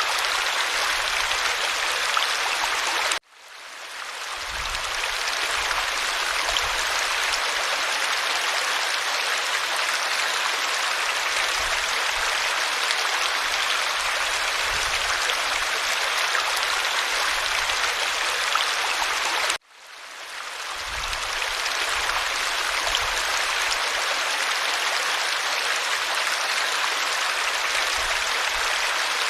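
Creek water flowing over rocks, a steady rushing babble. Twice, about 3 seconds and about 20 seconds in, it cuts out suddenly and fades back in over a second or two, as at the seam of a looped recording.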